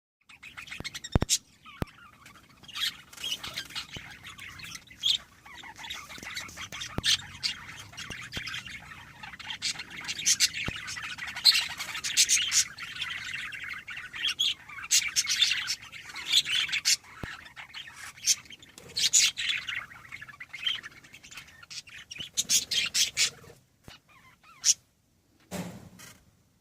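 Birds chirping, many short calls overlapping in a busy chorus that thins out and almost stops near the end.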